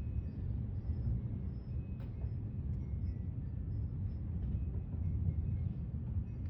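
Gusty thunderstorm wind buffeting the microphone: a steady low rumble that swells and eases a little, with one faint click about two seconds in.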